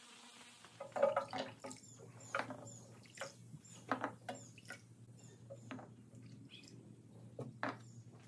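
Wet plastic toy wheels handled and set down on a workbench: a series of light, irregular knocks and clicks, the loudest about a second in and again near the end, with dripping water.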